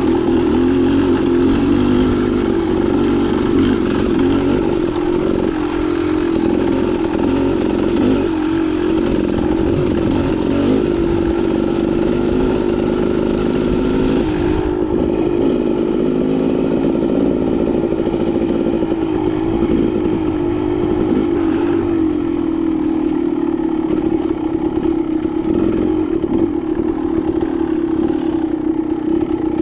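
Dirt bike engine running on a rough trail ride, its pitch rising and falling with the throttle. A hiss above the engine drops away about halfway through.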